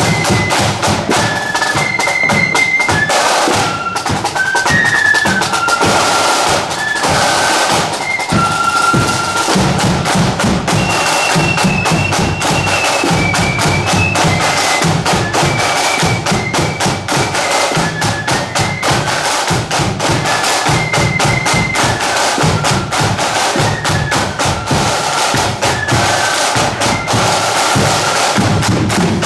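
Marching band playing a high-pitched melody over rapid snare drumming and a booming bass drum.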